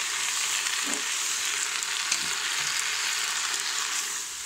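Collard greens sizzling as they fry in hot mustard oil in a pressure cooker pot, turned over with a wooden spoon: a steady frying hiss with a few faint ticks from the spoon.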